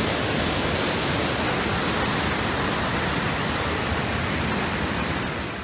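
Steady rushing water of a waterfall, beginning to fade out near the end.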